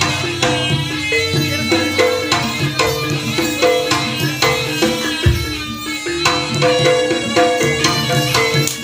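Live traditional Javanese jaranan accompaniment: kendang hand drums and struck, tuned percussion repeat a short melodic figure to a steady beat. A deep, low stroke lands about five seconds in.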